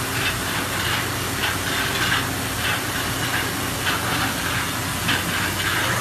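Cincinnati Maxum 630 horizontal machining center running: a steady hiss over a low hum, with irregular brighter rasps every half second or so.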